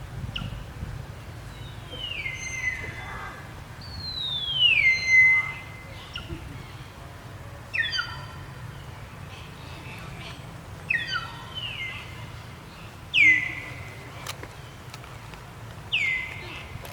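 An animal's repeated high calls, about six of them, each sliding down in pitch and then holding a steady note briefly.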